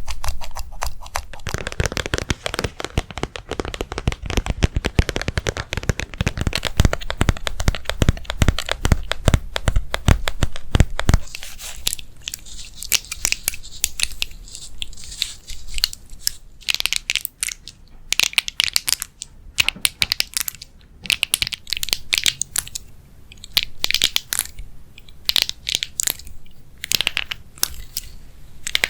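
Close-miked ASMR crackling and crinkling: a dense run of rapid crackles for about the first eleven seconds, then sparser, lighter crackles and taps.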